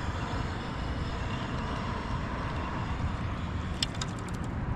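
Wind buffeting the microphone, a steady low rumble over a hiss, with a quick run of faint ticks about four seconds in.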